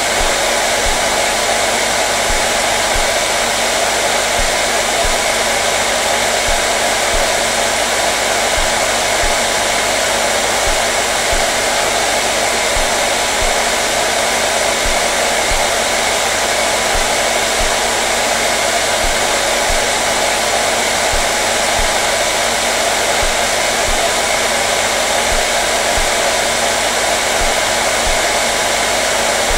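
Hair dryer running steadily: an even, unbroken rush of blown air with a faint motor hum underneath.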